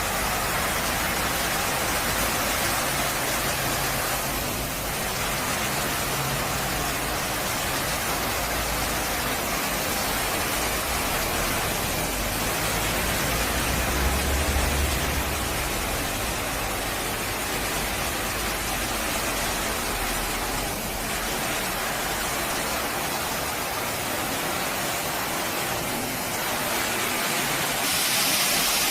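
D100B industrial ride-on floor cleaner running as it cleans a parking garage floor: a steady hiss with a low hum underneath. A brighter, louder hiss comes in near the end.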